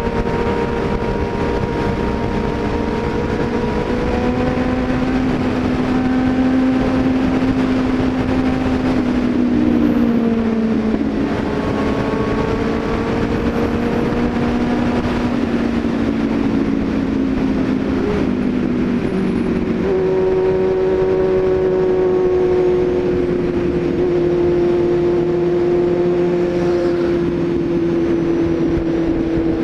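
A vehicle's engine running while under way, its pitch drifting slowly and shifting a couple of times, over steady road and wind noise.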